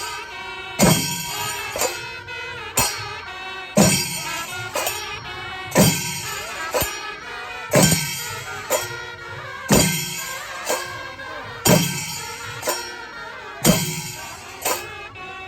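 Panchari melam ensemble: chenda drums and ilathalam cymbals playing a slow, steady cycle, a heavy stroke about every two seconds with lighter strokes between, the cymbals ringing on after each beat.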